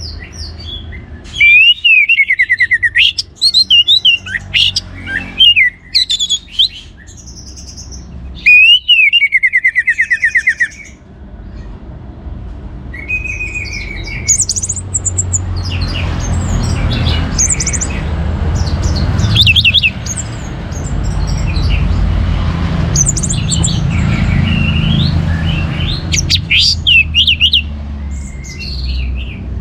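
Orange-headed thrush singing in loud phrases of fast trilled notes, many falling in pitch, with short gaps between. In the second half a low rumble runs under shorter, scattered phrases.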